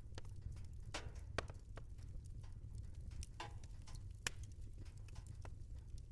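Wood fire crackling in a fireplace: irregular pops and snaps over a low steady rumble, with two sharper pops about one and a half and four seconds in.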